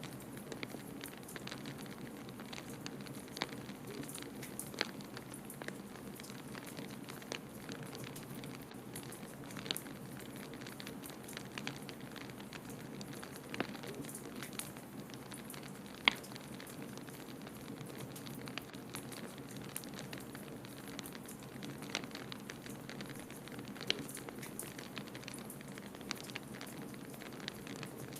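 Wood fire crackling in a fireplace: scattered sharp pops and snaps, one louder about sixteen seconds in, over a steady low rushing background.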